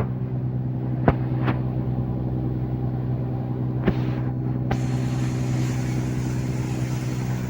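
Boat engine running at a steady pitch, with a few sharp knocks about one, one and a half, four and nearly five seconds in.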